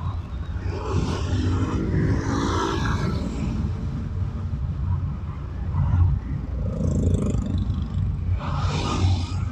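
Car driving in city traffic, heard from inside the car: a steady low road and engine rumble, with other vehicles' engines passing and fading, most clearly about two seconds in and again near the end.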